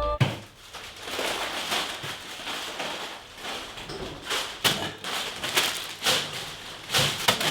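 Irregular rustling and crinkling with scattered clicks and light knocks, as of food packaging being handled.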